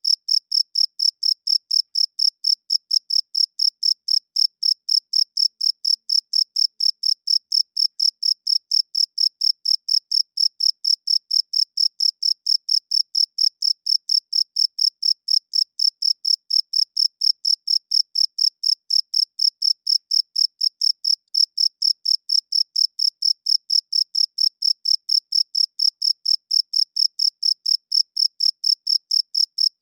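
Male crickets chirping by rubbing their wings together: an unbroken, evenly spaced train of high-pitched chirps, several a second, all on one steady pitch.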